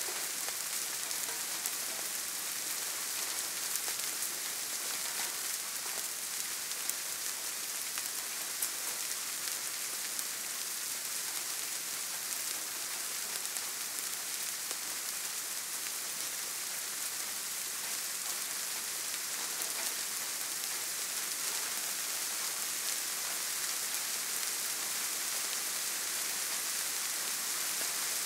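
Steady soft rain falling: an even hiss sprinkled with many small, separate drop ticks.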